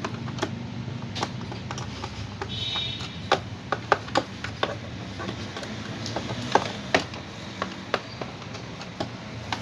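Irregular clicks and knocks of a DOSS Bluetooth speaker's casing being handled and fitted back together, over a steady low hum.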